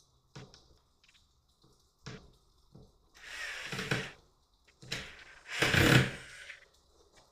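Flat-pack cabinet parts being handled: a few light knocks, then two longer bouts of handling noise, the louder one about six seconds in.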